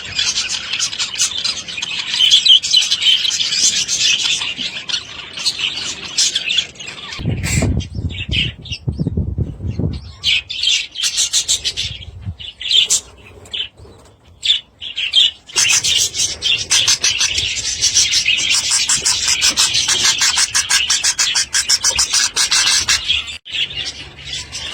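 A flock of budgerigars chattering and warbling in fast, dense chirps, thinning out for a few seconds in the middle, with a brief low rumble about seven seconds in.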